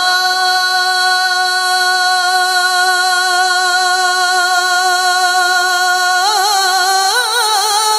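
A single voice singing an Urdu naat, holding one long steady note for about six seconds, then breaking into a wavering, ornamented run near the end.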